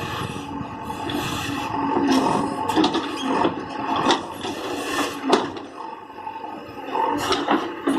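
Irregular scraping and rubbing with a string of short knocks, typical of a backhoe bucket working against earth and wood.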